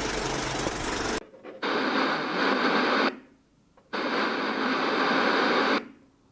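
A running engine cuts off about a second in. Then come two bursts of radio-like static hiss, each about a second and a half long, with a short gap between them.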